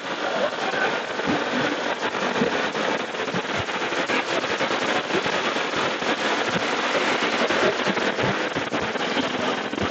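Riding noise on a motorcyclist's microphone: a steady rush of wind and road noise, thick with crackles and pops.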